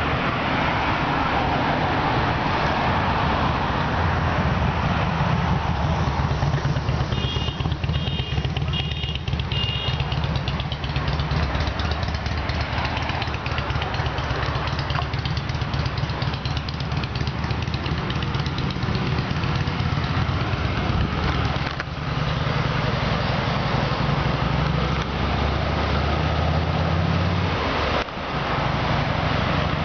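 Ford Crown Victoria Police Interceptor's 4.6-litre V8 idling steadily, a low even hum. About a third of the way through, four short high-pitched pips sound over it.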